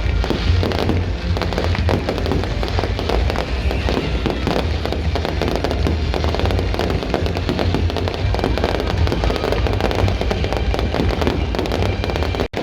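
Aerial fireworks display going off in a dense, continuous barrage of bangs and crackles over a deep rumble, with a momentary gap near the end.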